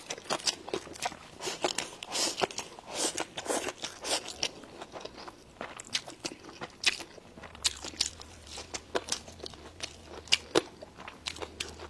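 A person chewing and biting food close to the microphone: irregular crunches and wet mouth clicks with no steady rhythm. A faint low hum comes in about two-thirds of the way through.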